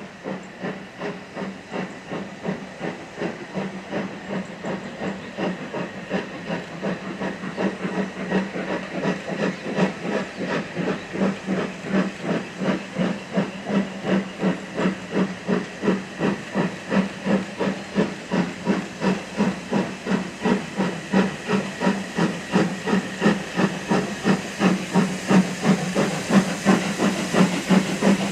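Steam locomotive working hard, its exhaust beating about three times a second and growing steadily louder as it approaches.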